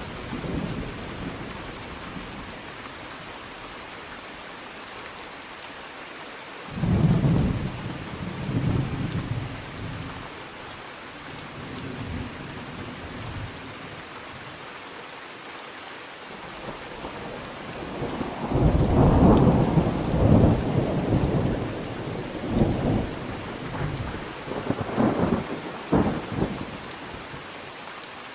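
Steady rain falling, with thunder rumbling through it: one roll about a quarter of the way in, and a longer, louder rolling peal past the middle that breaks into several further rumbles near the end.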